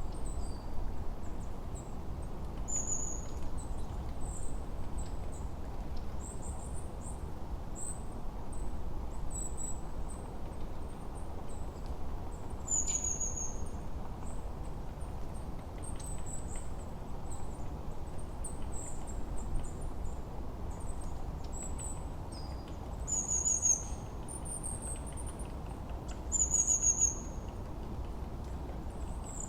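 Forest birdsong: small birds giving high, short chirps and quick downward-sliding trills every few seconds over a steady low rushing background, with the loudest calls in the last few seconds.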